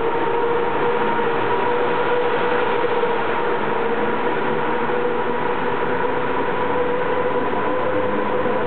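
Passenger coaches of a departing train hauled by an EU07 electric locomotive rolling past, a steady rumble of wheels on rail with a steady two-note hum over it, in an underground station.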